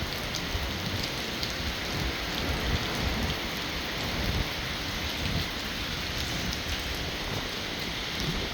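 Heavy rain falling steadily: an even hiss of rain with many separate drop hits close by and an uneven low rumble underneath.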